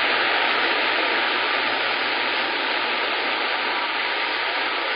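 CB radio static: a steady hiss from the receiver with an open channel and no one talking, confined to the radio's narrow audio band.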